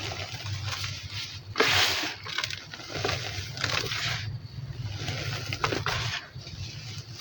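Dry, sandy chunks being crumbled and crushed, giving irregular gritty crunches and crumbling trickles. The loudest crunch comes about two seconds in.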